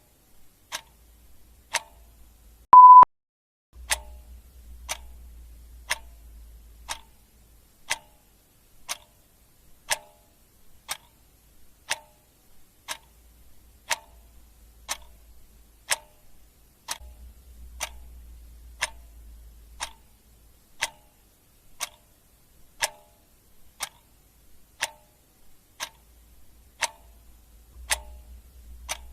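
Clock ticking steadily about once a second, with a short, loud, high beep about three seconds in.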